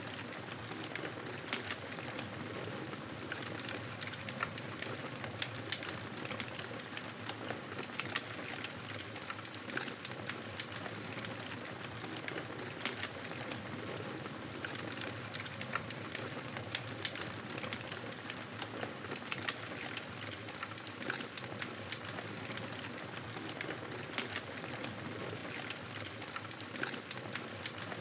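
Wood fire in a fireplace crackling steadily, with frequent sharp pops and snaps over a soft hiss.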